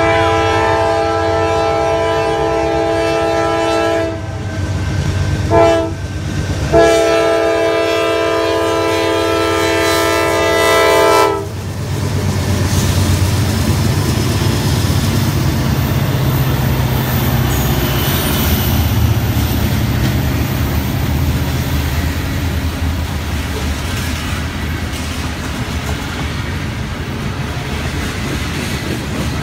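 Norfolk Southern diesel freight locomotive's air horn sounding a chord in a long, short, long pattern, cutting off about 11 seconds in. The locomotives then rumble past, followed by covered grain hopper cars rolling by with their wheels clacking on the rails.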